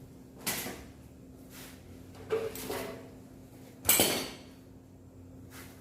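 A handful of separate metallic clanks and knocks, the loudest about four seconds in, over a faint steady hum.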